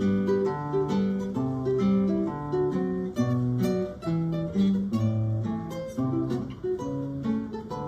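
Acoustic guitars playing an instrumental piece together, a plucked melody over steady bass notes.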